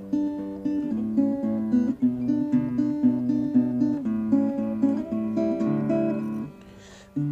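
Acoustic guitar played live, a repeating pattern of picked notes and chords. It drops out briefly near the end, then starts again.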